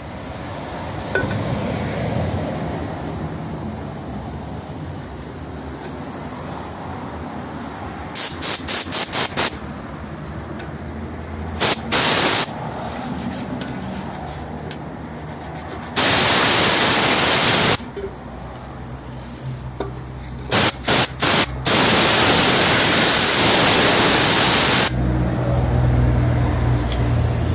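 Pressurized spray hissing in bursts that start and stop sharply: a run of short quick blasts, a pair, a long blast of about two seconds, four more quick blasts, then a longer one of about three seconds.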